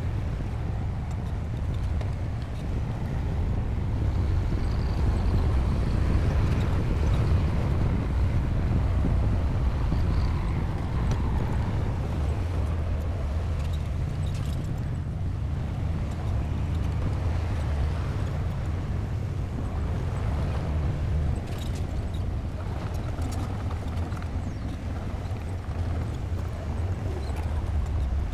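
Crawler bulldozer's diesel engine running steadily with a deep low rumble, with a few faint metallic clicks in the second half.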